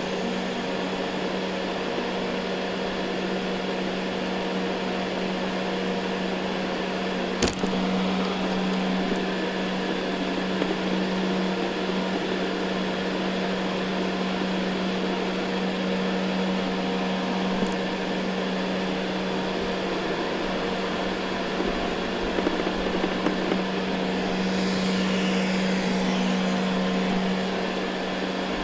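Ecovacs Deebot N79 robot vacuum running on carpet: a steady motor whir with a strong hum, with a sharp click about seven seconds in and a few light ticks later.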